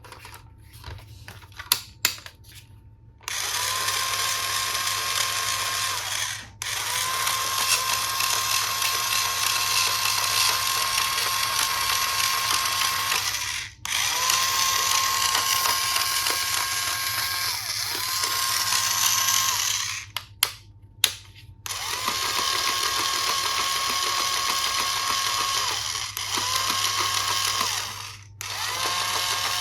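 Battery-powered toy electric screwdriver running in several long bursts, its small motor and plastic gears giving a steady whine that spins up at the start of each run and stops in short gaps between them. A few sharp plastic clicks come before the first run.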